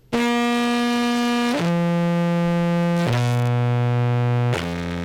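Amplified contrabass clarinet through a fuzz and compressor chain, playing four sustained notes that step downward, each held about a second and a half, with a thick, buzzing fuzz tone.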